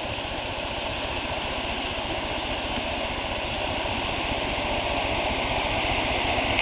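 Steady rushing of a stream or small waterfall, a constant noise that grows gradually louder.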